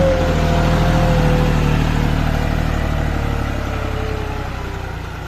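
Tractor diesel engine running steadily, loudest near the start and fading toward the end as it moves away.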